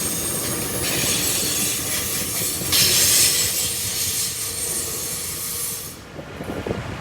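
Tri-Rail commuter train rolling by, a loud rush of wheel and rail noise with faint high steady tones. It drops away suddenly about six seconds in.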